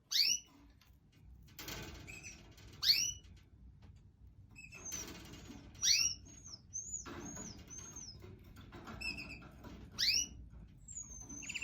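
Canaries calling: loud, short upward-sweeping chirps about every three seconds, with softer short notes between them and, twice, a run of quick arched high whistles.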